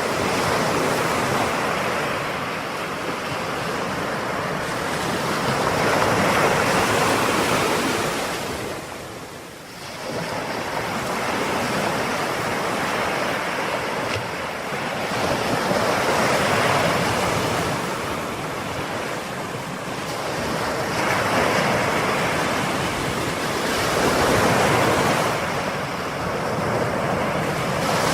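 Ocean waves breaking and washing on a shore: a continuous surf noise that swells and ebbs, with a short lull about nine seconds in.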